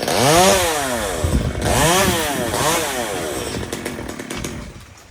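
Two-stroke chainsaw revved three times, its pitch rising and falling with each throttle blip, then dropping back toward idle near the end.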